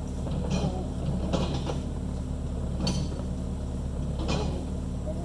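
John Deere 450B crawler engine running steadily, with several short creaks and clunks from the working machine, about one every second.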